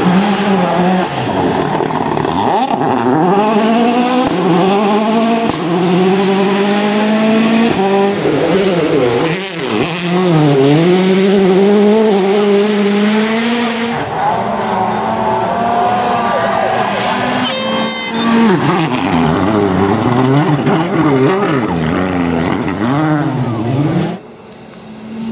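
Rally cars' turbocharged four-cylinder engines revving hard, the pitch climbing and dropping repeatedly through gear changes and lifts as the cars pass. The sound cuts abruptly from one car to another twice, about 14 and 24 seconds in.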